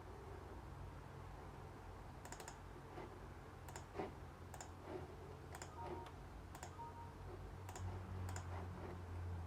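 Faint, scattered light clicks, roughly one or two a second and irregularly spaced, beginning about two seconds in, over a low steady hum that grows slightly near the end.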